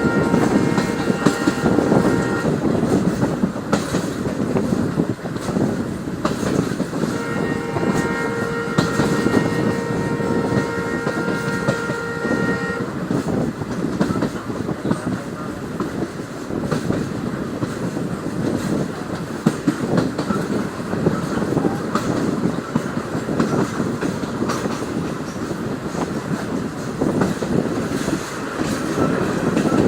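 Train running on the rails with a continuous rumble and clatter. A train horn sounds twice: a blast of a few seconds right at the start and a longer one of about six seconds from about seven seconds in.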